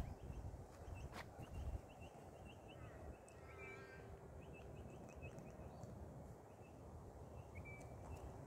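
Faint birdsong: quick high chirps repeated a few times a second, with a brief run of held whistled notes about three and a half seconds in, over a low rumble.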